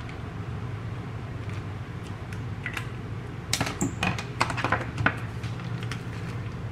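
A steady low hum with a quick run of sharp clicks and knocks about halfway through.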